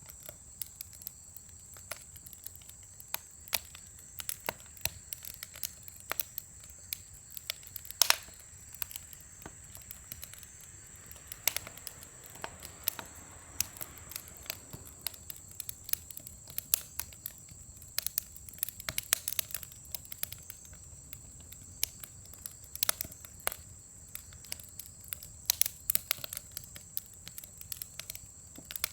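Firewood burning in a large fire pit, crackling with irregular sharp pops, a few louder ones. A steady high-pitched tone runs underneath.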